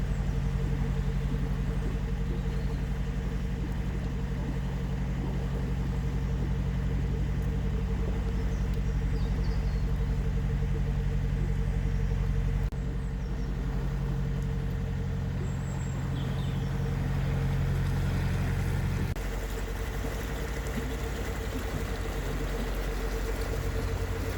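Narrowboat's diesel engine running steadily at low revs with an even low throb. The engine note changes abruptly about halfway through and again a few seconds later.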